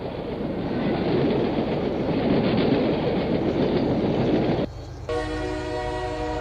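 Train sound effect: a moving train rumbling with a clickety-clack beat, which cuts off suddenly. It is followed near the end by a steady, multi-toned train horn.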